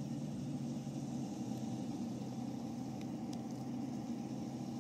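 A car engine idling steadily, with a low, even hum and a few faint ticks.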